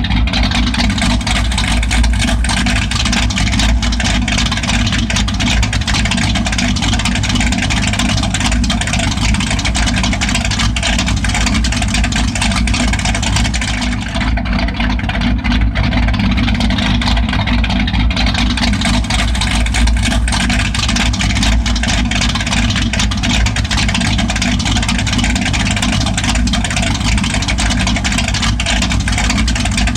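1995 Ford F-150 with a straight-piped exhaust, idling loud and steady.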